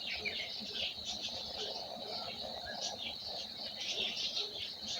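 Many small birds chirping and twittering at once, a dense unbroken chorus of short high chirps.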